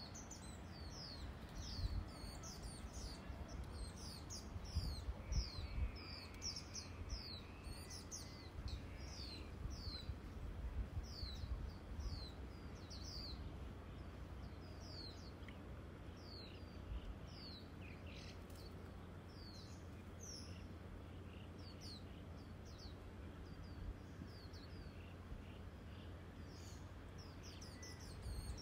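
Outdoor ambience: a bird calling over and over in short, high, falling chirps, about one or two a second, over a low rumble of wind on the microphone that comes in gusts during the first half.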